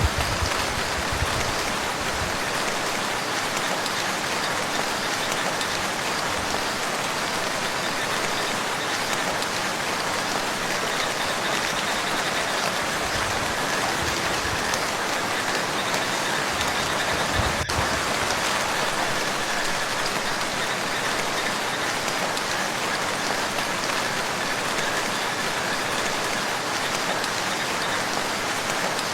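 Steady rain falling on water, a dense even patter of drops, with a single sharp click a little past halfway.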